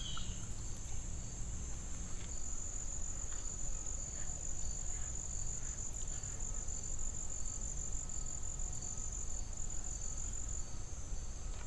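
Insects trilling steadily in a continuous high buzz, with a fainter chirp repeating at an even pace.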